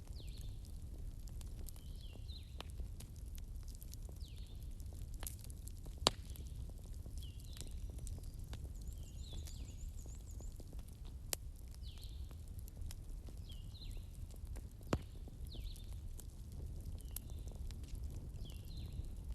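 Fireplace ambience: a low steady rumble of burning with sparse sharp crackles and pops, one loud pop about six seconds in. Short high chirps recur about once a second throughout.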